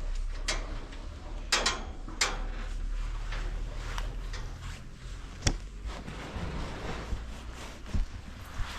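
Several sharp clicks and knocks, irregularly spaced, over a steady low rumble.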